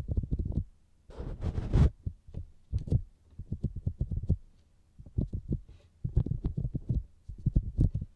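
Fingertips tapping on the outer ear of a binaural microphone: quick runs of soft, low thuds in clusters with short pauses between, and a brief rubbing rustle about a second in.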